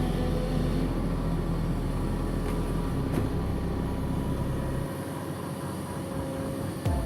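A heavy engine running steadily with a low hum, its low end falling away about five seconds in, then a sudden louder sound near the end.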